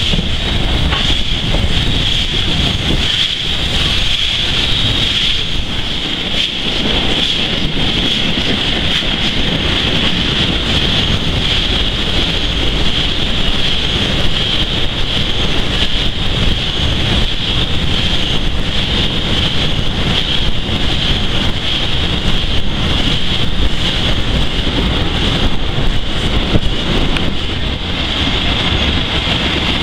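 Steam-hauled train running, heard from an open carriage window just behind the locomotive: a steady rushing rumble with wind buffeting the microphone and a constant high hiss over it.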